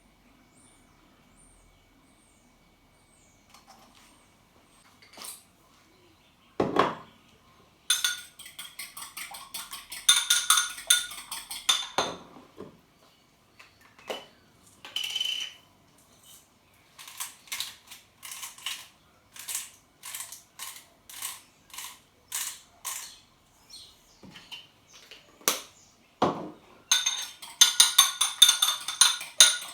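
Metal cutlery clinking and scraping against a dish in quick runs of strokes, with a steadier stretch of about two knocks a second in the middle and a couple of duller knocks, one near the start and one near the end.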